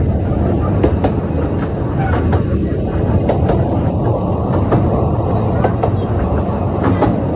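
Narrow-gauge train running along the track: a steady rumble with irregular clicks and clatter from the wheels over rail joints.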